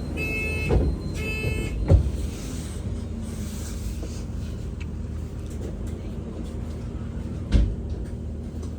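Inside a BYD battery-electric bus: a chime beeps in two short bursts in the first two seconds, with knocks as the doors work, then the steady low hum of the bus running, with another knock near the end.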